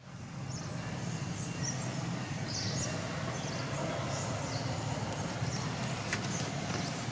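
Steady outdoor background noise with a few short, high chirps during the first few seconds, from birds or insects.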